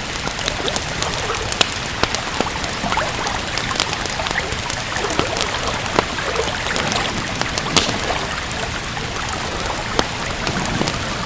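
Steady rain with a wood fire crackling over it: scattered sharp pops and snaps, the strongest about six and eight seconds in.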